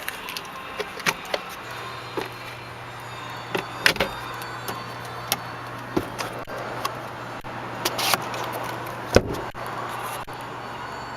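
A scattered series of sharp clicks and knocks from a car's doors, trim and controls being handled, over a steady low hum that starts about a second and a half in.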